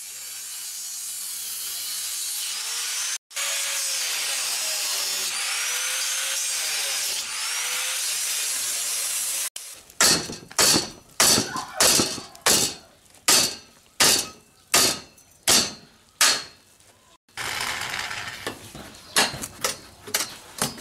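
A power tool cutting through thin steel for about nine and a half seconds, with a brief stop about three seconds in. Then about a dozen hammer blows, roughly one and a half a second, knock the rusted-out leg off the cart, followed by lighter clattering.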